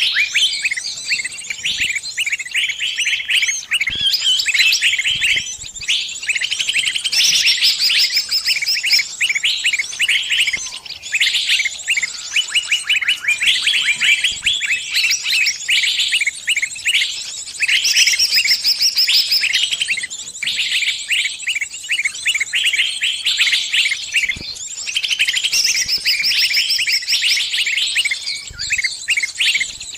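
Small bird giving rapid, dense strings of high chirps and trills with only short pauses: the distress calls of a trapped bird calling to its flockmates for help.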